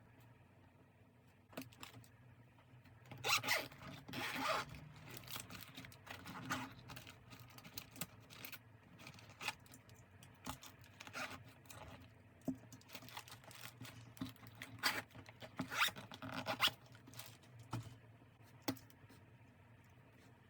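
Paper and tape being handled in short tearing, scraping strokes with pauses between. The strokes are loudest about three to four and a half seconds in and again around fifteen to seventeen seconds in.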